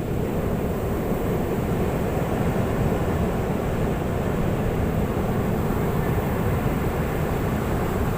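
Ocean surf breaking on a beach: a steady low rumble of waves without separate distinct crashes.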